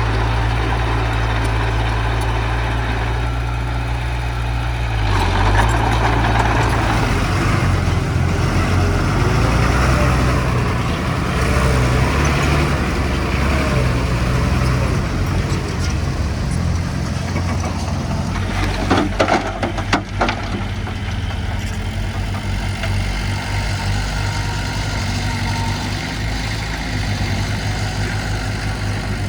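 Diesel engines of earthmoving machinery, a bulldozer and a dump truck, running steadily under work. A few sharp knocks come about nineteen to twenty seconds in.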